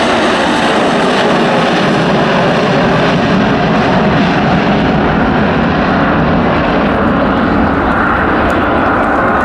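Loud, steady engine noise of a fixed-wing aircraft flying close by.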